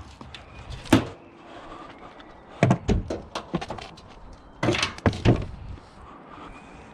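Van doors being opened and handled: one sharp thunk about a second in, then two bunches of knocks and clatters a couple of seconds apart.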